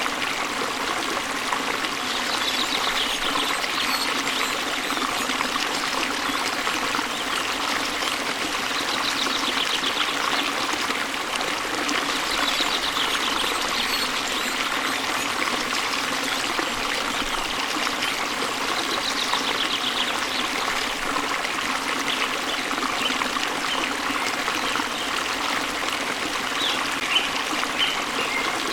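Waterfall water splashing and flowing steadily into a stream. A faint trilling bird call repeats a few times above it.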